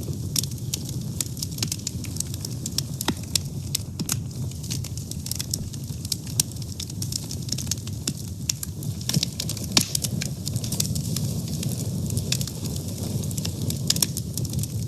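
Fire burning with steady crackling: frequent irregular sharp pops and snaps over a low, steady rush of flame.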